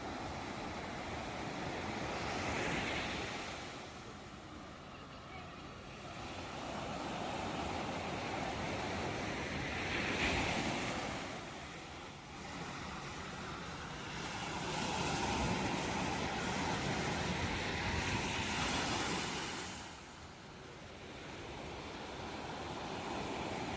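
Ocean waves breaking and washing on the shore, the surf swelling and ebbing in slow surges every few seconds.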